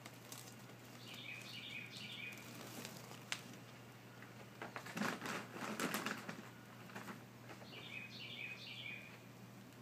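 A small bird calling, a quick run of short chirping notes, heard twice, about a second in and again near the end. Between them, from about five to six and a half seconds in, a loud flurry of rustling and sharp taps.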